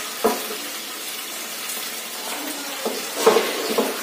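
Green chilli paste sizzling in hot oil in a nonstick frying pan over a high gas flame, a steady hiss. A spatula scrapes and knocks against the pan once just after the start and a few times near the end.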